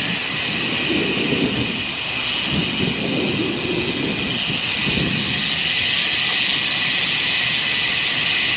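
Steady rushing of wind and road noise picked up while riding a road bicycle, an even hiss with no breaks.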